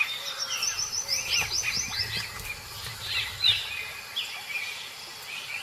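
Wild birds singing and chirping: a fast run of short high notes in the first couple of seconds, then scattered sharp chirps.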